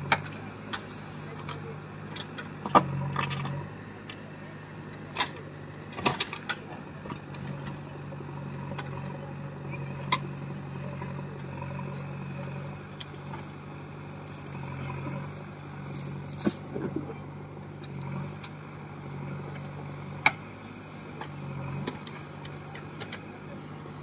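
JCB backhoe loader's diesel engine running steadily while digging, its note swelling and easing a little with the load, with scattered sharp metallic clanks and knocks.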